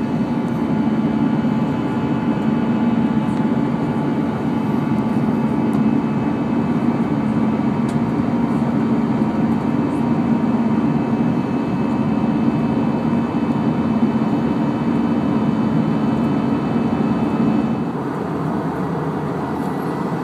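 Steady in-flight cabin noise of an Airbus A319 jet airliner: engine hum and rushing airflow with a few faint steady tones. The low hum eases slightly near the end.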